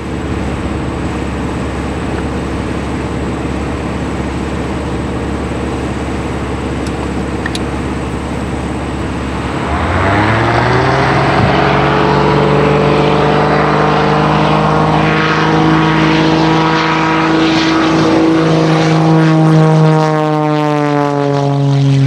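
Propeller-driven aerobatic biplanes, Christen Eagles with engines boosted past 300 horsepower. A steady engine drone runs until about ten seconds in, when an engine throttles up with a quickly rising pitch. A second engine joins at a higher pitch, and both run loud and steady with a swirling, phasing sound as they move.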